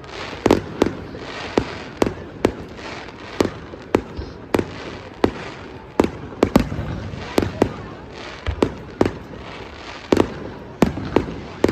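Fireworks display: a quick run of sharp bangs, about one or two a second, over a continuous rumble of bursts and crackle.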